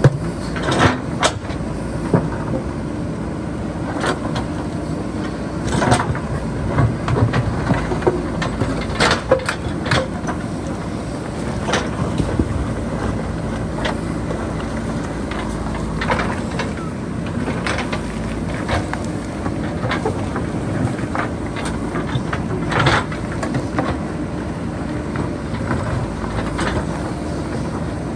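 JCB backhoe loader's diesel engine running steadily under load, with frequent sharp knocks and clanks as the bucket works among rocks and boulders.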